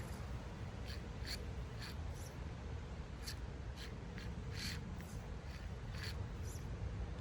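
Axial SCX24 micro RC crawler working through grass: irregular short crackles and ticks as its tires scrabble over dry grass and twigs, over a low steady rumble.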